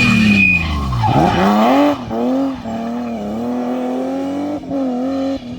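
Rally car engine at high revs passing close, its note falling sharply as it goes by. An engine note then climbs about a second in and holds steady, dipping briefly a few times.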